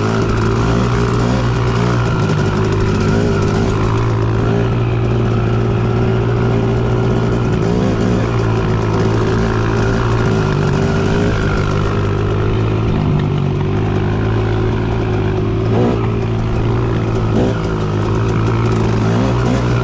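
Dirt bike engine running steadily while riding, its pitch rising and dipping slightly with the throttle.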